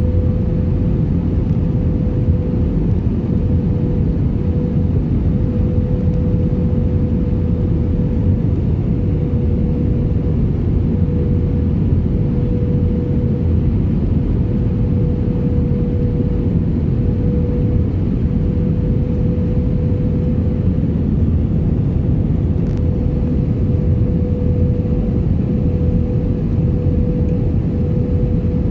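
Airliner cabin noise: a steady low engine and airflow drone with a constant hum tone running through it, unchanging throughout.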